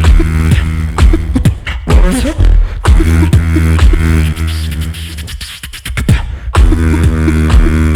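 Live beatboxing: mouth-made kick and snare hits over sustained, buzzing vocal bass lines in a steady groove. About five seconds in the beat thins and the bass drops out, then the full bass line comes back in about a second and a half later.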